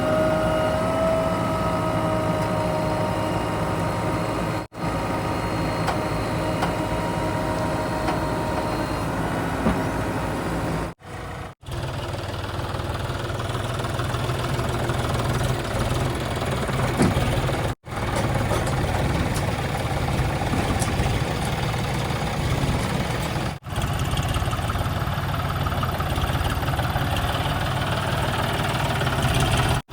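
Heavy diesel engines running, in a string of short clips cut one after another. A steady whine with overtones sits over the engine rumble for about the first ten seconds.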